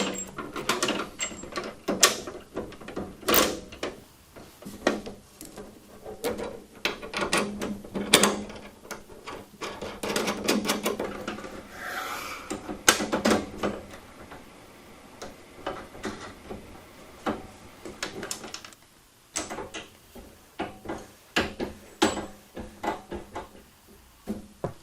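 Irregular clinks, knocks and rattles of metal parts and hand tools as go-kart parts are bolted together with nut spacers, busier in the first half and sparser near the end.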